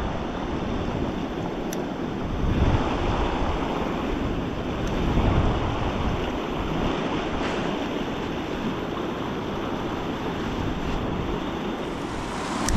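Steady rush of flowing river water, with wind buffeting the microphone in low gusts a few times.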